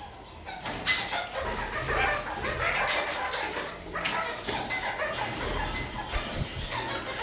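Pet red-crowned kakariki (parakeets) chattering and calling in a busy, irregular stream, with a few sharp clicks among the calls.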